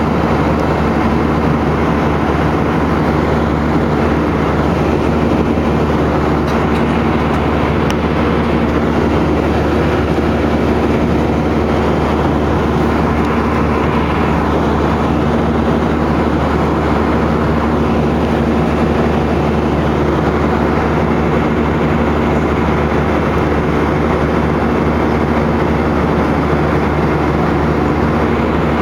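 Steady drone of an airliner's engines and airflow heard inside the cabin, even and unchanging, with a few held low hums under a broad rushing noise.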